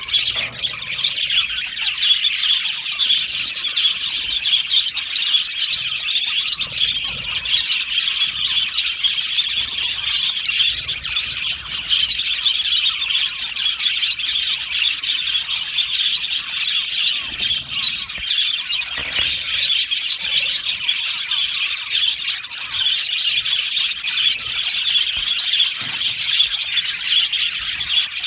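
A flock of budgerigars chirping and warbling together in a continuous, busy chatter.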